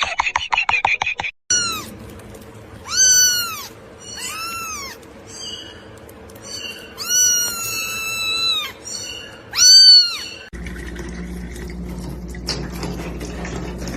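A cat meowing repeatedly in high, rising-and-falling calls, one drawn out for nearly two seconds. A quick rattle of clicks comes before the meows, and after about ten and a half seconds they give way to a steady low hum.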